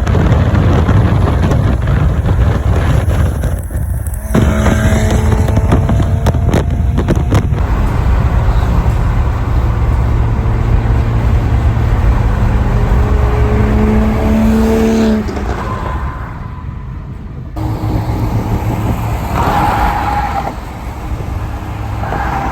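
A car's engine and exhaust running loud and low under way. The sound changes abruptly several times.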